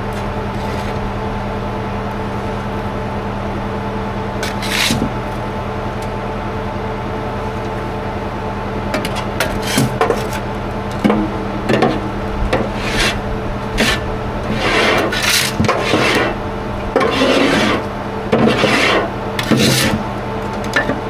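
Soil being spread by hand: a hand tool scraping through soil in repeated short strokes, a single stroke early and then strokes coming every second or so in the second half. Under it runs a steady machine engine hum.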